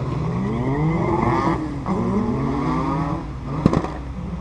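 A race car ripping down the drag strip at full throttle: the engine note climbs, drops at a gear change about two seconds in, climbs again, then fades.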